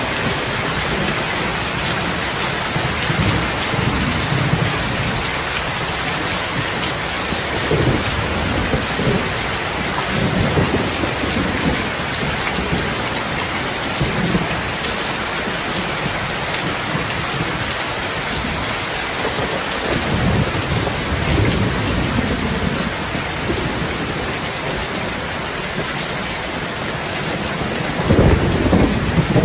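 Heavy rain falling in a steady, dense hiss, with low rumbles of distant thunder swelling several times; the loudest rumble comes near the end.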